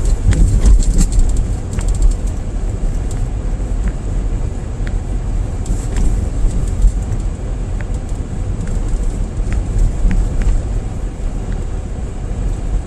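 Car driving on snowy, ploughed roads: a steady low rumble of engine and tyre noise, with scattered faint ticks.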